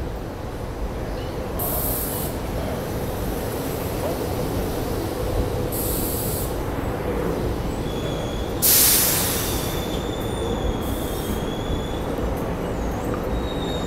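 SEPTA Silver Liner IV electric multiple-unit train pulling in along the platform and slowing, with a steady rumble of wheels on rail. A thin high wheel squeal runs through the middle and comes back near the end, and a loud burst of hiss comes about nine seconds in.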